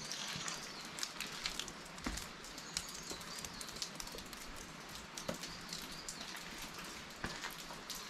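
Rain pattering: scattered sharp drops ticking irregularly over a steady hiss.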